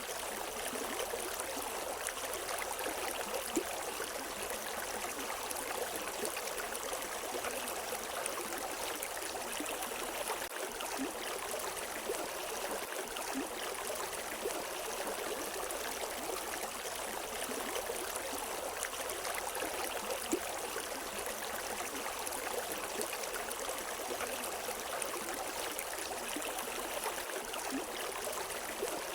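A river flowing over rocks: a steady rush of water with small splashes and trickles, without birdsong.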